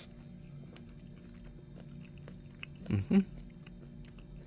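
A person chewing a bite of a Nestlé Drumstick cone's peanut-and-chocolate-coated tip: faint, scattered small crunches, with two short hums of the mouth about three seconds in.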